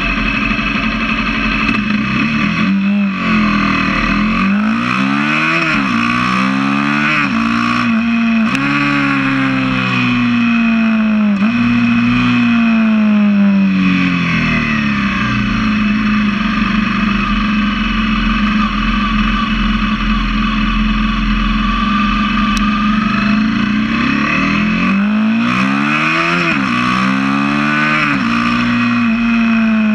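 Honda CBR250R's single-cylinder engine running through a LeoVince aftermarket exhaust with its dB killer fitted. It revs up through the gears, its pitch rising and dropping sharply at each shift, then holds a steady cruise for about ten seconds before another run of upshifts near the end.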